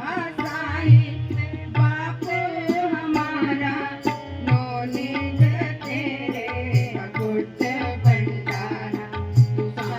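Gurbani kirtan music: tabla playing a steady beat with deep bass strokes about once a second, under a melodic line that glides and bends in pitch.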